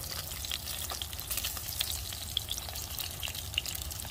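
Slices of Spam frying in hot oil in a nonstick pan: a steady sizzle with many small crackling pops.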